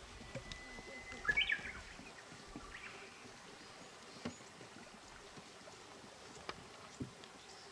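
A bird singing in the open: one held whistled note followed by a quick run of higher notes, then a fainter short phrase. A few faint ticks come later.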